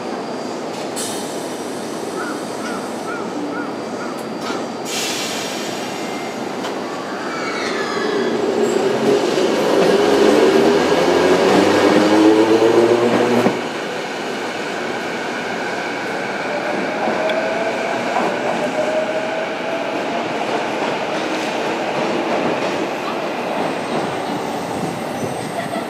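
Toei 8800-series tram moving through the turnback crossover, its traction motors whining in rising pitch as it accelerates, loudest about halfway through and cutting off abruptly, with rail and wheel noise throughout. A string of about six short beeps sounds a couple of seconds in, and a second rising whine follows later.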